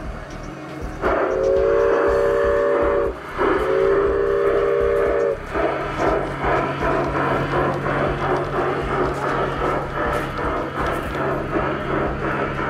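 G-scale model locomotive's onboard sound system blowing two long chord whistle blasts, about two seconds each, then a steady low hum with a fast regular beat as the train runs.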